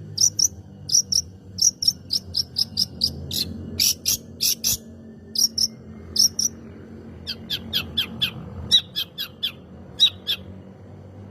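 Long-tailed shrike (cendet) singing in rapid runs of short, sharp, high chirps, several a second, with a short pause near the middle. Toward the end the notes turn into quick downward-sliding calls.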